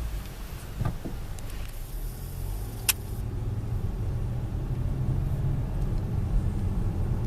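Steady low rumble of a car's engine and road noise heard from inside the cabin while driving, with a single sharp click about three seconds in.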